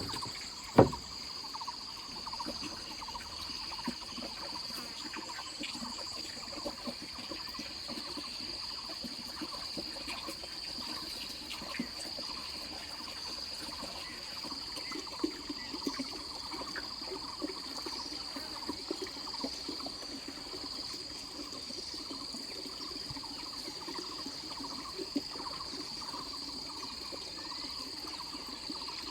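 Insects chirring in one steady high-pitched drone, with scattered light knocks and taps and one sharper knock about a second in.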